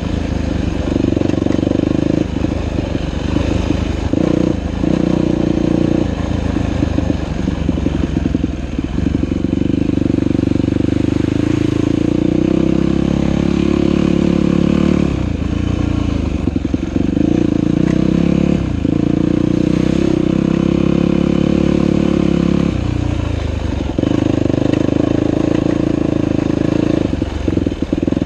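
Dirt bike engine running under way, revving up and dropping back again and again as the throttle is opened and closed, with short dips in pitch and level every few seconds.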